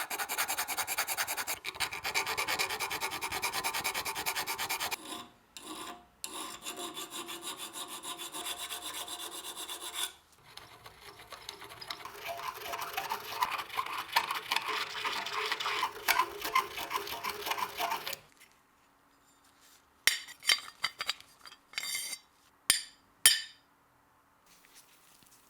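Rapid back-and-forth abrasive rubbing by hand on an old electric drill's part, in long runs of quick strokes with short pauses. It stops about 18 s in, and a few sharp knocks follow near the end.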